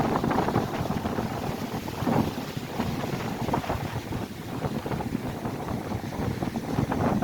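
Strong gusting wind buffeting the microphone over waves breaking on a lakeshore. The rush swells and eases, with stronger surges about two seconds in and near the end.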